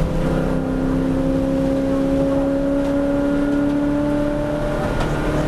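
V8 race car engine heard from inside the cabin, pulling hard under full acceleration, its pitch climbing slowly and steadily as the car gathers speed.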